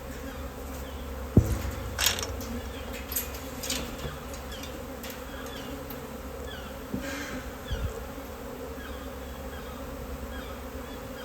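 A honey bee swarm buzzing steadily, with a sharp knock about a second in and a few lighter clicks and thumps after it.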